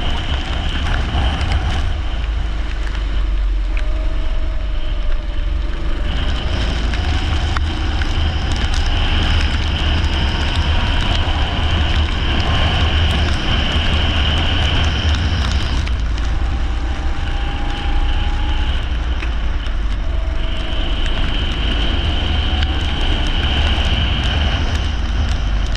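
Leisure kart engine heard from an onboard camera, its pitch drifting gently up and down, under a heavy, steady low rumble of wind and vibration on the microphone.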